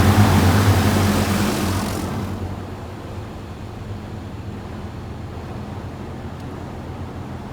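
High-pressure water spray from an Oasis BayWash i5 in-bay automatic car wash hissing against the car, fading and then cutting off about two seconds in as the high-pressure cycle ends. A steady low hum remains.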